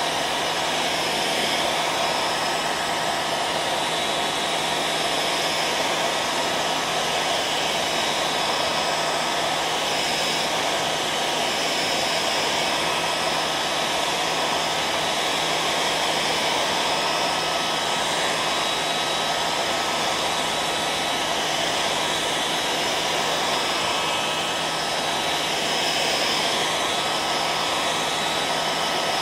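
Hair dryer running steadily: an even rush of air with a thin, steady motor whine on top.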